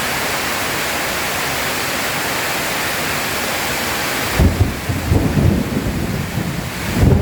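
Steady heavy rain hissing, which about four seconds in switches abruptly to lighter rain under deep rolling thunder that swells in uneven surges, loudest near the end.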